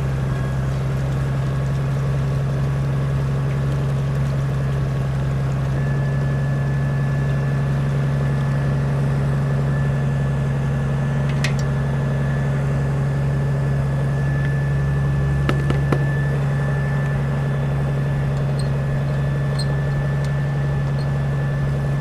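Wheel loader's engine idling steadily as it warms up after a cold start. A few short clicks and knocks come through around the middle.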